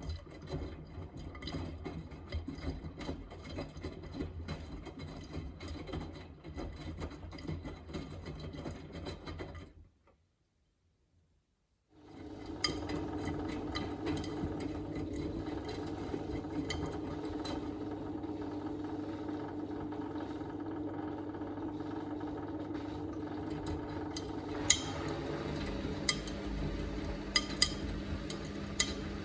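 Miele front-loading washing machine turning its drum in the first rinse, wet laundry sloshing and clinking. The sound cuts out for about two seconds. It comes back as the drain after the first rinse: a steady drain-pump hum under the turning drum, with a few sharp clacks near the end.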